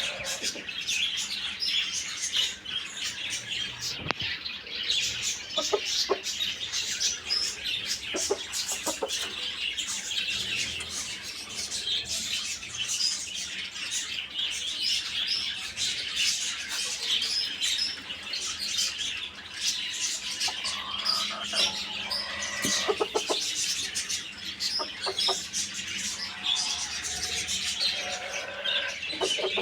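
Many birds chirping continuously and densely, high-pitched. From about two-thirds of the way in, chickens cluck in short pitched calls.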